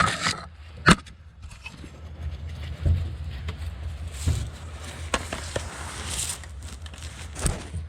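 Scattered metallic clinks and knocks of hand tools on exhaust bolts and hardware while the exhaust is being tightened down, a sharp one about a second in, over a steady low hum.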